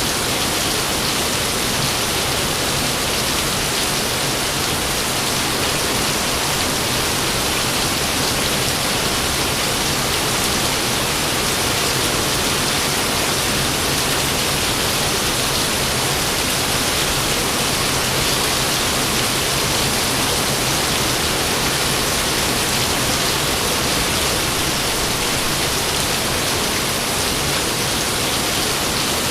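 Steady, heavy rain: an even, unbroken hiss with no thunder claps.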